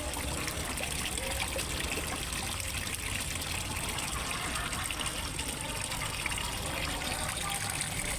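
Steady trickling and splashing of water falling into a fish pond, like a small waterfall, without a break.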